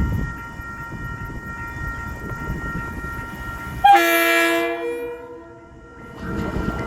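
TranzAlpine diesel-hauled passenger train rumbling along the rails, with one loud horn blast about four seconds in that holds for about a second and fades away. The rumble drops off briefly after the horn and then comes back.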